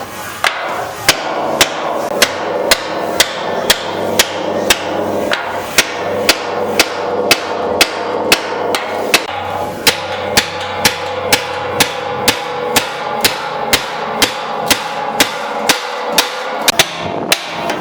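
Hand hammer striking metal in a steady rhythm, about two blows a second, over a steady drone.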